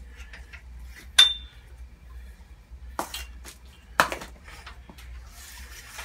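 Metal parts of a miter saw stand being handled, clinking and knocking. There are three sharper knocks, about one, three and four seconds in; the first is the loudest and rings briefly.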